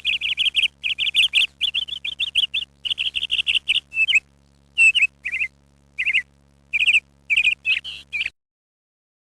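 A small bird chirping in quick runs of short, high notes, in bursts with brief pauses, stopping abruptly a little over eight seconds in.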